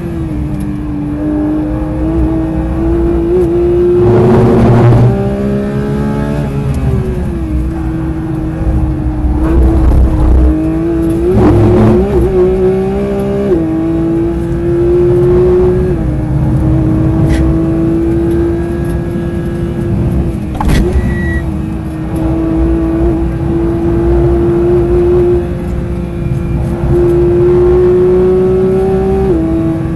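Porsche 992 GT3's 4.0-litre naturally aspirated flat-six at high revs under full throttle, heard from inside the cabin. Its note climbs slowly and drops in steps a few times as it changes gear or lifts, over steady tyre and road noise. Twice there is a louder rumble, about four and eleven seconds in.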